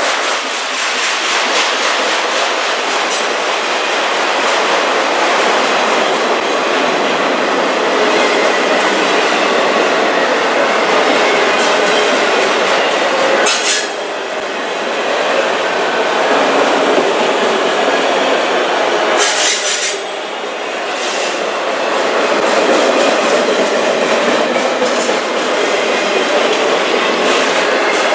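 Freight train of autorack cars rolling past: steady wheel-on-rail noise with the clickety-clack of wheels over rail joints. The noise briefly dips with a sharp clank about halfway through, and again about two-thirds of the way through.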